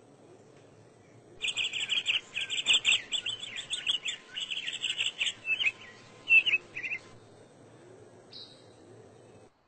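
A songbird singing a rapid, varied twittering song of many quick high notes, starting about a second and a half in and lasting about five and a half seconds. A single short high call follows near the end.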